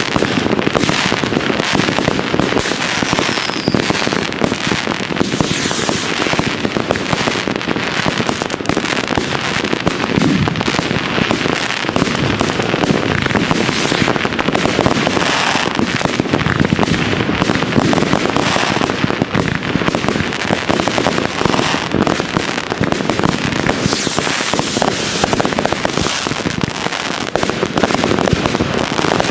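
New Year's Eve fireworks set off all over a city at once: a continuous, overlapping barrage of bangs, pops and crackles with no pauses.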